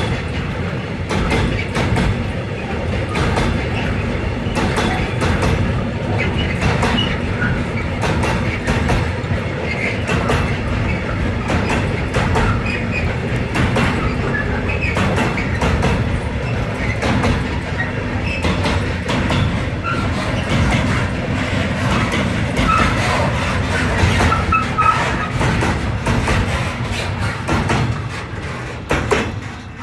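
Container flat wagons of an intermodal freight train rolling slowly past, wheels clacking irregularly over the rail joints with short faint squeals. The sound drops away near the end as the last wagon passes.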